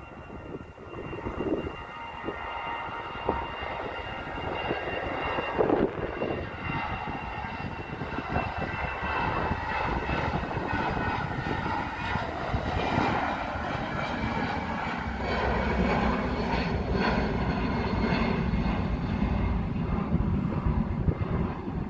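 Jet airliner's engines: a steady high whine over a broad rumble that grows heavier in the second half.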